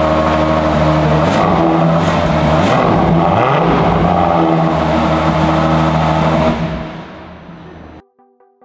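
Ferrari Purosangue's naturally aspirated V12 running loud and steady at idle, its pitch briefly sagging and recovering near the middle, then fading out about seven seconds in.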